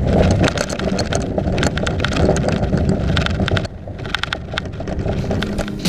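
Small boat on dolly wheels being towed along pavement: the wheels roll with a steady rumble and the hull rattles and clicks over the bumps.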